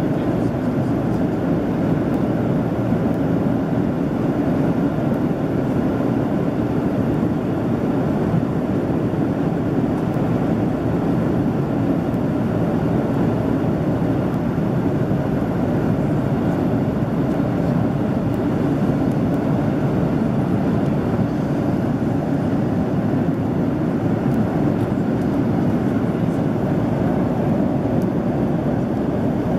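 Steady engine and airflow noise inside the cabin of a Boeing 767-300ER in flight: an even, low rush that holds one level throughout.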